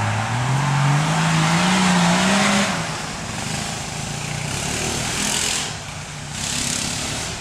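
Suzuki 4x4's engine revving under load as it climbs a steep slope, its pitch rising steadily for about three seconds over a rushing hiss. It then drops back to a lower, steadier run, with two short surges of hiss near the end.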